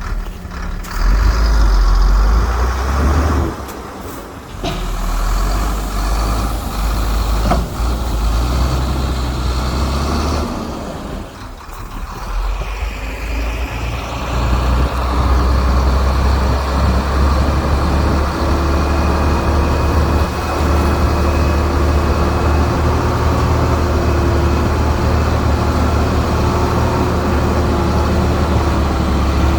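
Heavy diesel earthmoving equipment running, its engine a deep, loud rumble. The engine eases off briefly a little before the middle, then runs steadily with a faint high whine.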